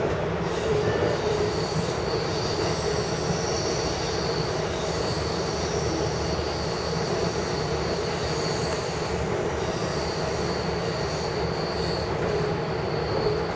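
Long Island Rail Road train running, heard from on board: a steady rolling rumble with a high wheel squeal over it that drops out briefly a couple of times.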